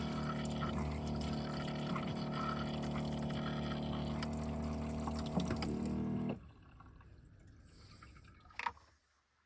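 A steady machine hum with a low buzz running under it, which cuts off suddenly about six seconds in, leaving a few faint clicks.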